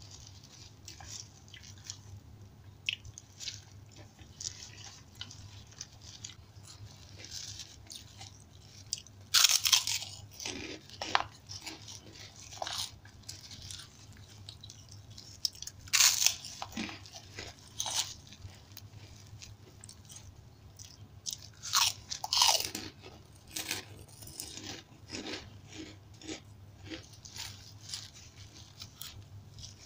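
Mouth sounds of someone eating by hand: moist chewing of rice with crisp crunches from biting crackers (kerupuk) and fried food. The loudest crunches come in clusters about a third of the way in, about halfway, and about three quarters through.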